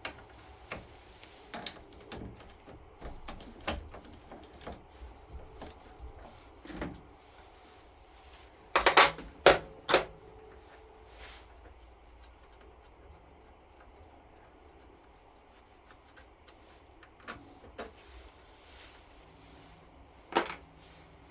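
Scattered clicks and knocks of hand work on a lawn tractor's battery terminal hardware (bolts, nuts and washers), with four sharp, loud knocks about nine to ten seconds in and a couple more near the end.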